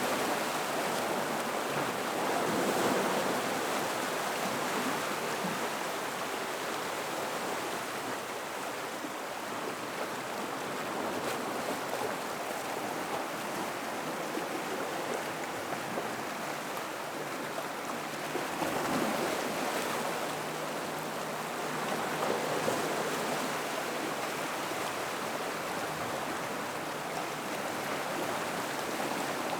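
Gentle ocean waves washing into and around a rock pool. The water makes a steady wash that swells softly a few times.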